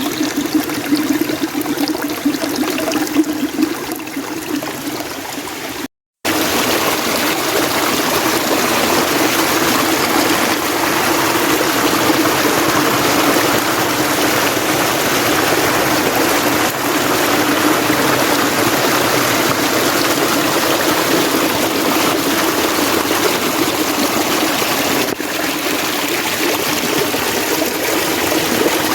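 Mountain stream water running steadily. The sound cuts out completely for a fraction of a second about six seconds in, then resumes slightly louder and fuller.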